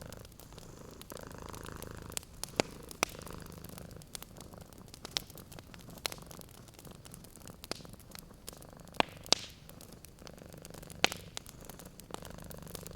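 A cat purring steadily in slow swelling cycles, while a wood fire crackles with sharp scattered pops, two of the loudest close together about nine seconds in.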